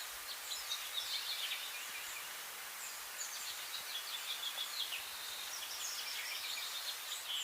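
Small birds chirping in quick clusters of short high calls over a steady high hiss of outdoor ambience.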